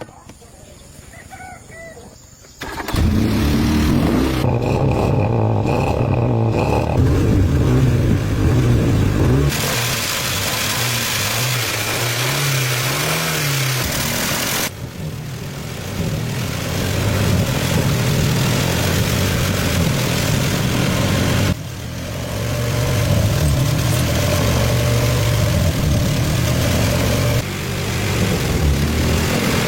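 An old car's engine catching about three seconds in and then running loudly, its note changing abruptly several times as it is revved.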